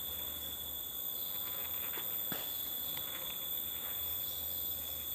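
Steady high-pitched insect chorus of crickets or cicadas, a continuous drone at several pitches, with a couple of faint clicks a little over two seconds in.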